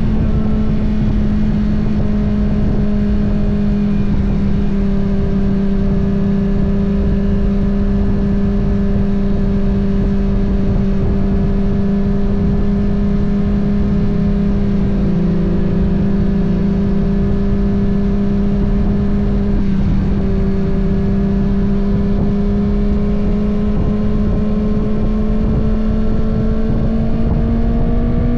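Kawasaki ZX-6R's inline-four engine running at steady cruising revs on the move, over a low rush of wind and road noise; the revs climb near the end.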